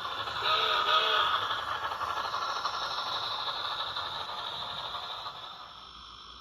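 HO scale steam locomotive sound decoder playing steam chuffing and hiss through a small speaker, with the mechanical rattle of the model's running gear, and two short tones about a second in. The sound fades out a second before the end as the locomotive stops.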